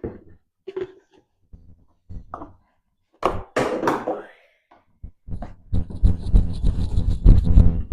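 Knocks and clatter of containers as elephant milk formula is made up, then from about five seconds in a dense, rapid run of strokes as the milk is mixed.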